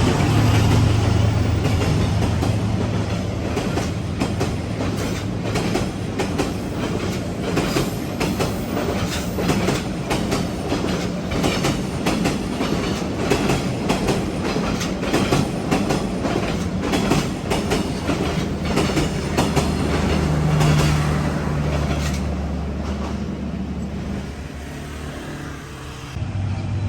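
Diesel-hauled train on Vietnamese railway passing: a steady low engine hum under a long run of wheels clacking over the rail joints, dying away a few seconds before the end.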